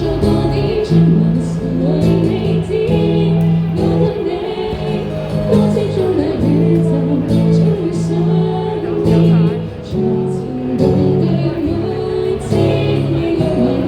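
A band playing a song live, with a singer's voice over held bass notes and accompanying instruments.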